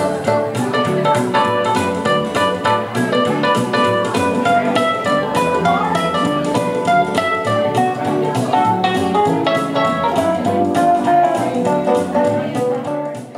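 Instrumental guitar music: plucked guitar notes over a steady beat.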